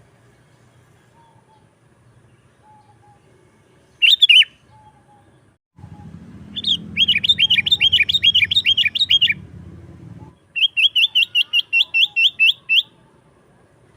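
Sooty-headed bulbul (kutilang) calling: one short call, then two quick runs of repeated chattering notes, about four to five a second, each run two to three seconds long.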